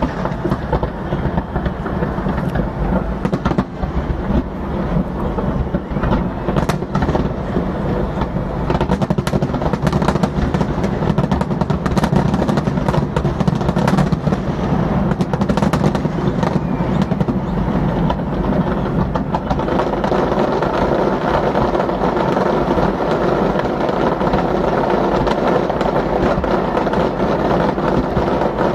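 Fireworks bursting overhead: a dense, continuous rumble packed with sharp crackling pops, which thin out about two-thirds of the way through and leave a steadier din.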